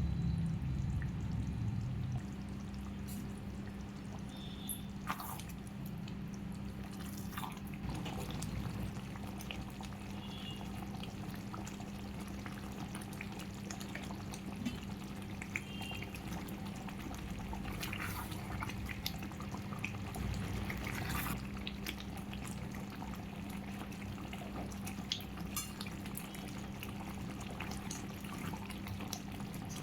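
Curry gravy cooking in a pan, with scattered short pops and clicks over a steady low hum.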